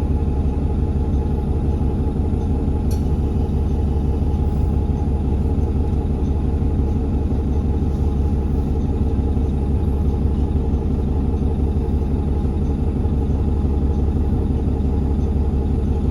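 Steady low engine drone and rumble heard from inside a city transit bus, unbroken throughout, with one faint click about three seconds in.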